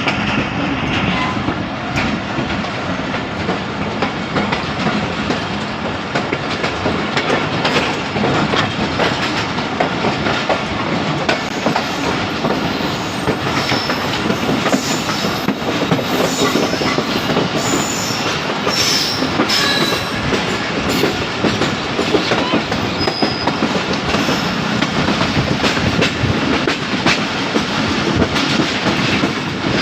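Passenger train running along the track: a steady rumble with the clickety-clack of wheels over the rail joints, and a few brief high-pitched wheel squeals in the middle.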